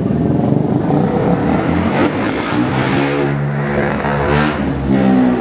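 A motor vehicle's engine running close by and accelerating, its pitch shifting as it revs, over general street traffic noise.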